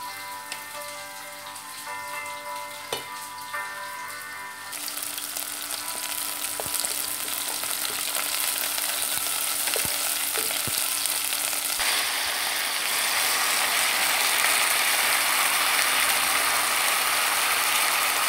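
Faint background music, then from about five seconds in sliced onions sizzling in olive oil in a pot, with a few knocks of the wooden spatula as they are stirred. About twelve seconds in the sizzle grows louder and hissier as spinach goes into the hot oil.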